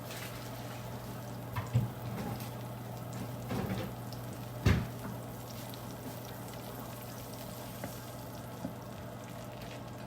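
Butter melting and sizzling gently in a pan over a steady low hum, with a few short knocks, the loudest about two and five seconds in.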